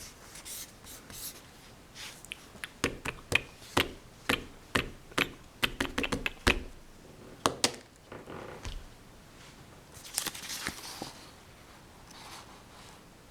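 Pencil on drawing paper: a series of sharp taps and short strokes, about two a second, some in quick clusters. About ten seconds in comes a brief softer rustle of paper or hand.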